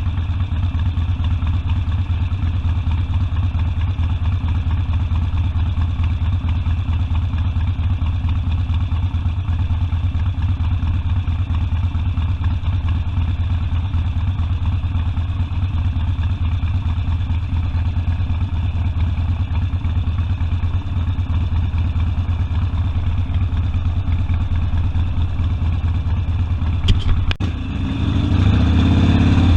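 Harley-Davidson Sportster V-twin engine running steadily. A sharp knock comes near the end, and the engine then turns louder and rougher.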